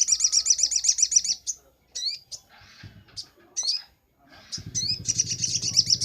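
Little spiderhunter (sogok ontong) calling: rapid runs of sharp, high chirps at about a dozen a second, with single notes between them. A low steady hum comes in about four and a half seconds in.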